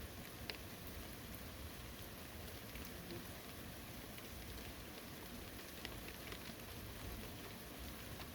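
Steady, faint rain falling on a forest, with scattered individual drops ticking out of the hiss.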